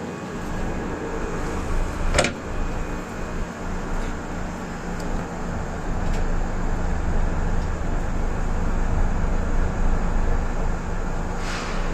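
Kintetsu electric train at the platform or just moving off: a steady low rumble, with a short swish about two seconds in and another near the end.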